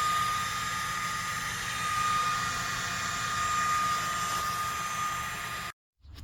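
A machine running with a steady hiss and a constant high whine, stopping abruptly near the end.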